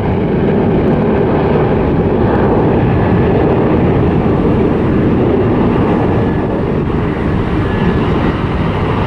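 Boeing 737 jet engines at takeoff thrust, a loud steady rush of noise as the airliner departs.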